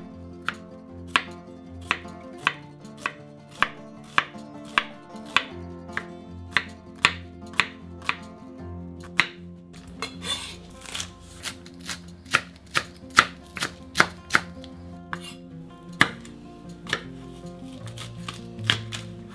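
Kitchen knife chopping vegetables on a bamboo cutting board: sharp knocks about twice a second as it dices carrot, then quicker, less even strokes through green onion from about ten seconds in, and a red pepper near the end. Soft background music underneath.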